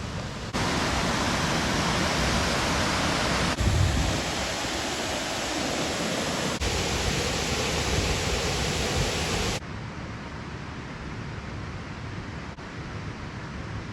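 Waterfall rushing: a steady roar of falling water. It gets louder about half a second in, changes level suddenly every few seconds, and drops back to a quieter rush near ten seconds in.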